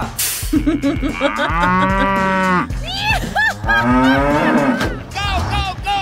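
Cows mooing: one long, level moo about a second and a half in, then several shorter moos.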